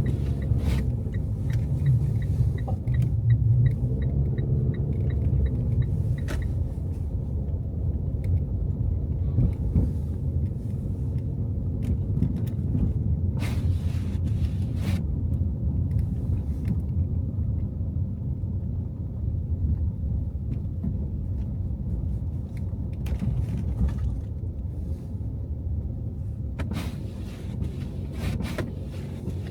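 Car driving on snow-covered city streets: steady low rumble of engine and tyres on the road. Several sharp knocks come through it, and a quick ticking of about four a second runs for a few seconds near the start.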